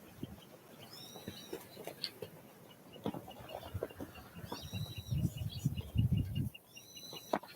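Small wild songbirds at a winter feeder: three short, high arched call notes, spaced a few seconds apart, over a faint run of quick high ticks. Soft taps and scuffling sounds come in between.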